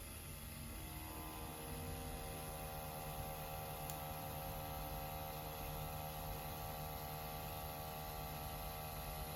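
CNC Q5 rotary tattoo pen fitted with a 7 round liner cartridge, running as it pulls a line on practice skin: a steady electric motor hum with a light whine, coming in about a second in.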